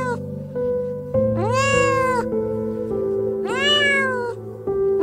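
Meow-like animal calls: the tail of one at the start, then two full calls about two seconds apart, each rising then falling in pitch, over background music with sustained notes.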